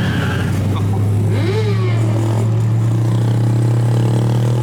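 Car engine and exhaust holding a steady low drone at a constant pitch while cruising, with a brief rising-and-falling whine about a second and a half in.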